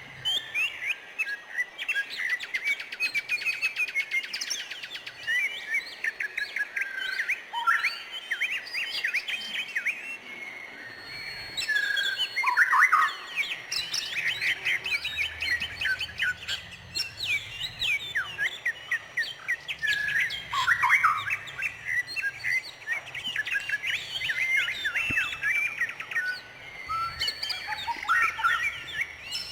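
Several songbirds chirping and twittering without pause, with rapid trills of quickly repeated notes overlapping one another. A few calls sweep lower, around halfway through and again about two-thirds of the way in.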